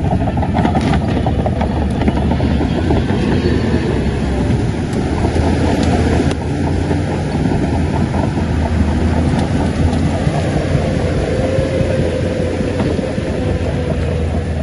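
Shantui crawler bulldozer's diesel engine running steadily, with the clatter of its steel tracks and a few sharp metallic knocks.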